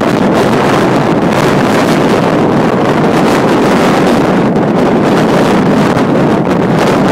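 Strong wind buffeting an iPhone's microphone, a loud, steady rumbling roar.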